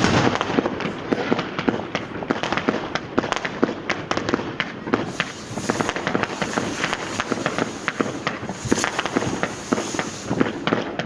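Street fireworks and firecrackers going off without pause: many sharp bangs and crackles, a loud blast right at the start, and a denser stretch of crackling in the second half.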